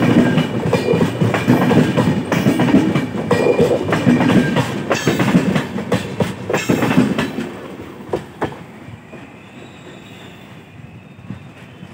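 LHB passenger coaches rolling past close by, their wheels clattering over the rail joints in quick repeated clicks. About eight seconds in the last coach has passed, and the sound drops to a much fainter rumble as the train draws away.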